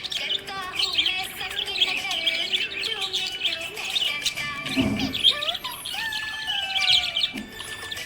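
Budgerigars chirping and chattering nonstop in a dense flock of quick tweets and warbles, with a brief low thump about five seconds in.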